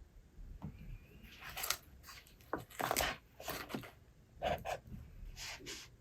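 Paper rustling as book pages are handled and turned, in several short swishes.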